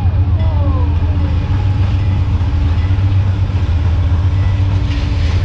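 Train passing close by, a loud steady low rumble.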